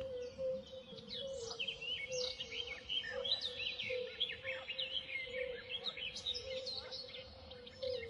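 Birds chirping and twittering, with many quick overlapping calls, over a steady low hum.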